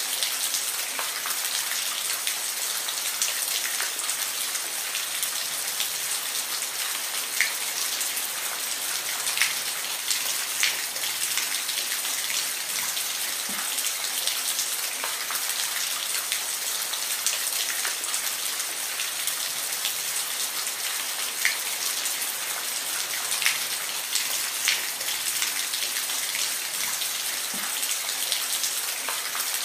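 Steady rain falling, a dense hiss with scattered louder drops pattering close by.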